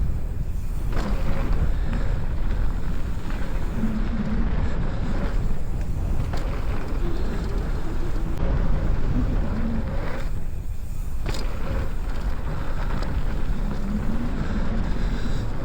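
Wind rushing over the microphone and the rumble of a mountain bike rolling fast down a dirt trail, steady throughout, with the upper hiss dropping away briefly about ten seconds in.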